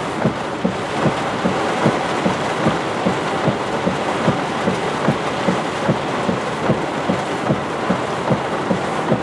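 Heavy rain pelting a vehicle's roof and windshield, heard from inside the cab: a dense, steady hiss with big drops knocking on the metal and glass several times a second.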